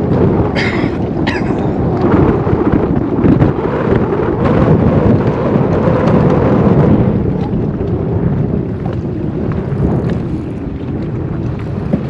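Heavy wind buffeting the microphone in a steady low rumble, with two brief sharper noises about half a second and a second and a half in.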